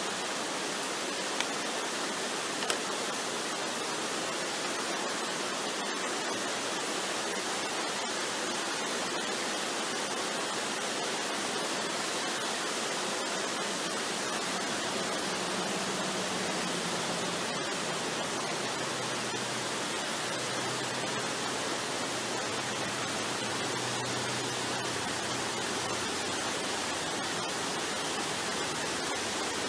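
Waterfall rushing: a steady, even hiss of falling water, with faint low tones drifting in about halfway through.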